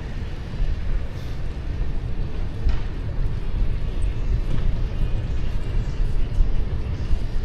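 Wind buffeting the microphone of a moving e-bike, a steady low rumble.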